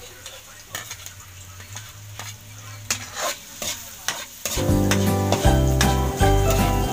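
Onion, garlic and chili sizzling in oil in a metal pot while a metal spoon scrapes and stirs them, with scattered clicks of the spoon on the pot. About four and a half seconds in, background music with a heavy beat comes in and becomes the loudest sound.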